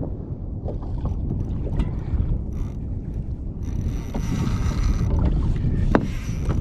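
Wind buffeting the microphone with water lapping against a kayak hull; about halfway in a brighter hiss joins, with a few small clicks.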